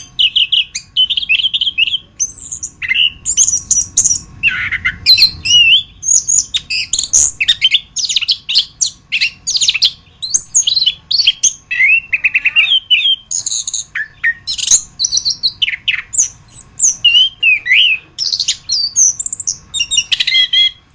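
Chestnut-capped thrush (anis kembang) singing a long, rapid song of varied whistled phrases, slurred notes and trills, with only brief gaps between phrases.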